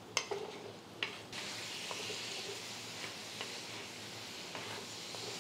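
Brinjal (eggplant) pieces and shallots sizzling in hot coconut oil in a clay pot as they are stirred with a wooden spatula, with light clicks as the spatula knocks the pot and vegetables. The sizzle swells about a second in.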